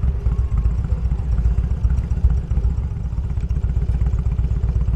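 Motorcycle engine running with a steady low rumble as the bike rides along.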